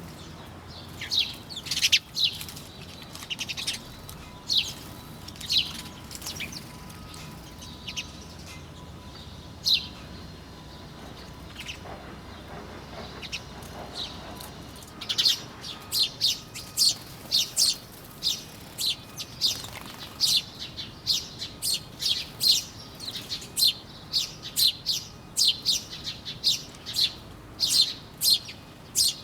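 Birds chirping: short, sharp, high chirps, scattered through the first half, then coming thick and fast from about halfway on.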